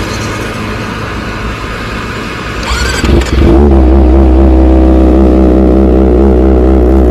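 Kawasaki ZX-25R's 250 cc inline-four, breathing through an R9 titanium full-system exhaust, starting about three seconds in and settling into a loud, steady idle.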